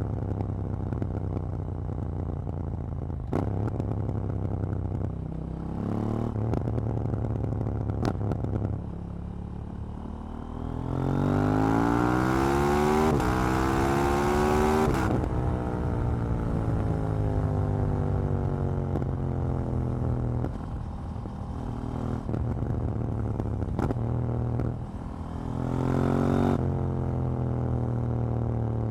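KTM 790 Duke's parallel-twin engine and exhaust on the move, running steadily, then opened up hard about ten seconds in so the pitch climbs for several seconds before the throttle is rolled off and the revs fall away. A shorter burst of throttle comes near the end, with a few sharp clicks along the way.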